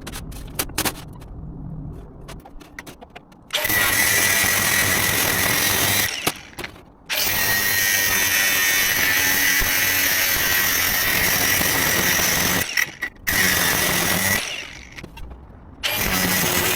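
Power tool cutting perforated steel sheet in several long, loud, steady runs with short stops between them, starting about three and a half seconds in, after some light clicking and handling.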